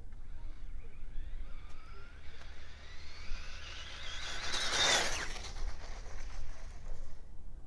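Electric motor of a Traxxas RC car whining, its pitch rising and falling with the throttle. It is loudest about five seconds in, then falls away.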